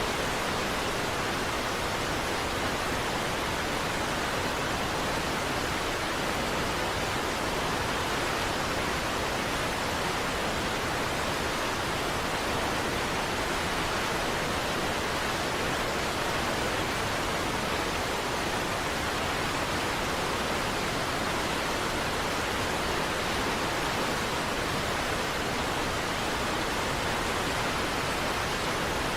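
Waterfall rushing: a steady, unbroken wash of falling water with no distinct splashes or changes.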